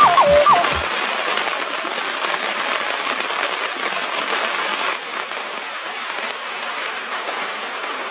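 Music with a repeated falling two-note figure over a beat ends about a second in, giving way to a steady, even hiss that eases off slightly after about five seconds.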